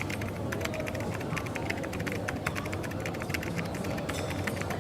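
Coffee shop background noise: many small, irregular clicks and clatters over a steady low hum.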